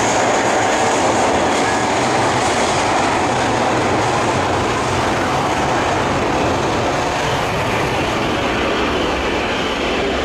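Boeing 737-800's CFM56 jet engines running loud and steady, easing off slightly over a few seconds.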